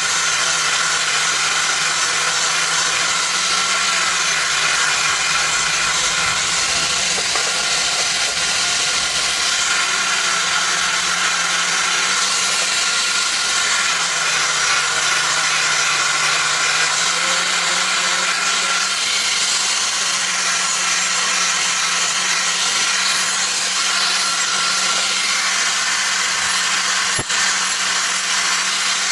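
Electric grinder running steadily against the steel of the blade: a continuous hiss over a low, steady motor hum, with a single click near the end.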